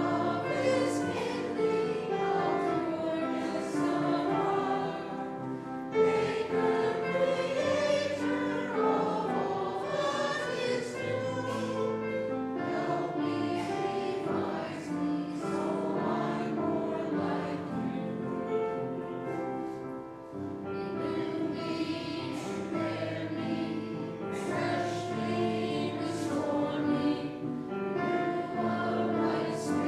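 A church congregation singing a hymn together in parts, with instrumental accompaniment, the notes changing about once a second.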